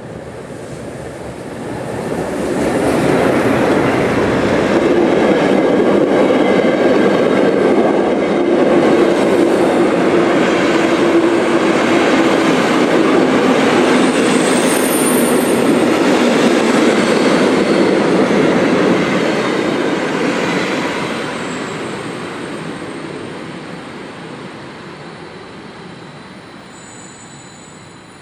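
Steam-hauled passenger train of a German BR 03 locomotive and its coaches running past, a loud rumble that builds over the first few seconds, holds steady, then fades away over the last third as the train recedes.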